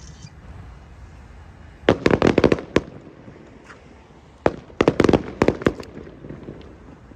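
Aerial fireworks bursting in two quick volleys of sharp cracks, the first about two seconds in and the second about four and a half seconds in.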